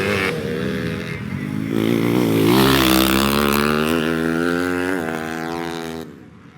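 Racing trail motorcycle engine revving hard under acceleration, its pitch climbing steadily for a few seconds before the sound falls away sharply near the end.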